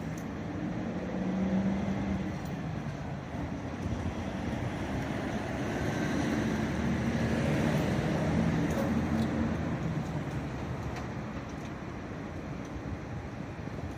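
A heavy vehicle's engine running, getting louder toward the middle and then easing off.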